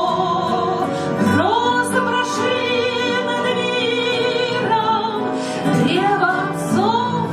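A woman singing a slow Russian song in a classical, opera-like voice, holding long notes with a wide vibrato over instrumental accompaniment.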